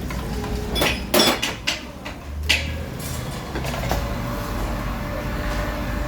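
Several sharp knocks and clinks in the first four seconds, like hard objects being handled or set down, over a steady low hum.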